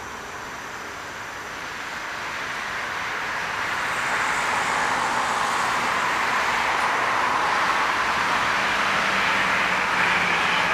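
Jet engine noise from a landing Boeing 777-300, growing louder over about four seconds and then holding steady.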